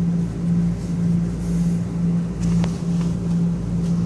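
Idling vehicle engine: a steady low hum that swells and fades slightly, with a faint click about two and a half seconds in.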